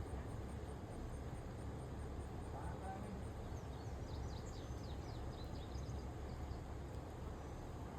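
Outdoor ambience: a steady low rumble, with a high insect pulsing about three times a second that stops a few seconds in, and a bird twittering in short chirps around the middle.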